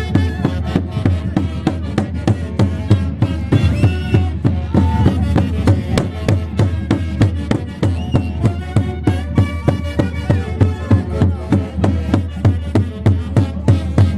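A live Andean orquesta típica playing Santiago, the festival music of the Huancayo region. Several melody instruments play together over a steady, fast drumbeat.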